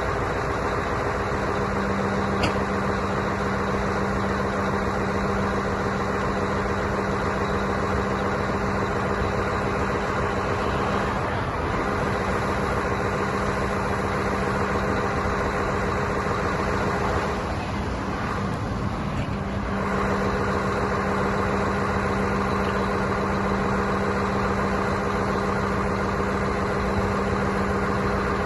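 Scania T144-530's V8 diesel engine running steadily with an even hum; the sound dips and wavers briefly about two-thirds of the way through.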